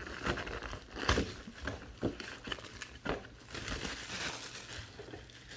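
Plastic and foil card-pack wrapping crinkling irregularly as a box of trading cards is opened and handled.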